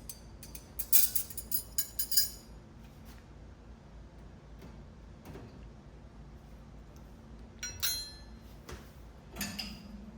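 Dishes and glassware clinking and knocking as they are lifted out of a dishwasher rack and set down: a quick run of clinks in the first two seconds, then a single ringing clink and a knock near the end.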